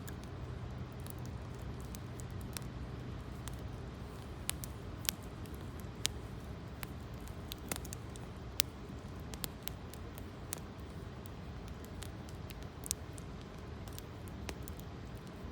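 Wood campfire crackling, with sharp single pops at irregular intervals over a steady low rumble.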